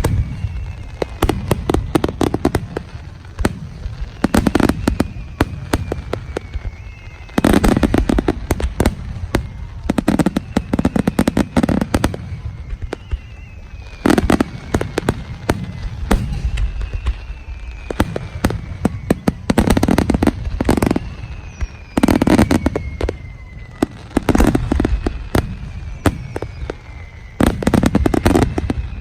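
Fireworks display: rapid volleys of aerial shell bursts and crackle, coming in loud waves every few seconds. Several times a high whistle falls slowly in pitch over a couple of seconds.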